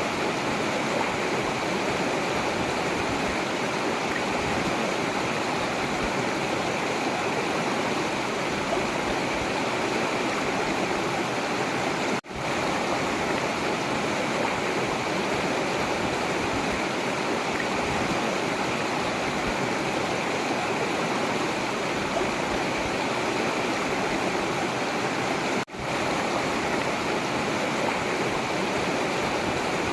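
River water rushing steadily, a continuous even wash of flowing water. It cuts out for an instant twice, about a third of the way in and near the end.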